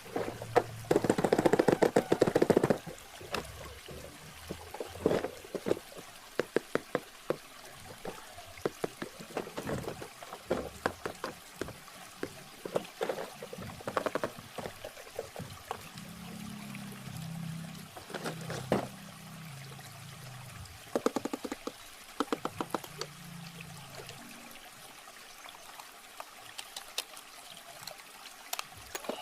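Water pouring and trickling, with many sharp clicks and crackles from a boxed toy and its plastic packaging being handled. The crackling is densest in the first few seconds, and a low hum runs for several seconds in the middle.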